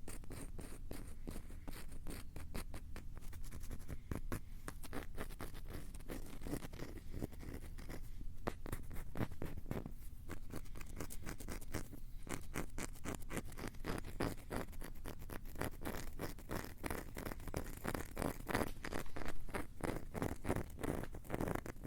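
Rapid, close-miked tapping and scratching on a Tascam recorder's microphones, a dense stream of sharp strokes several times a second, a little louder near the end.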